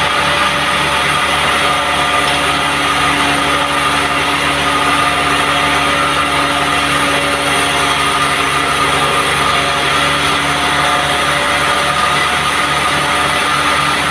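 Band sawmill running steadily, a continuous loud machine drone that holds the same level throughout.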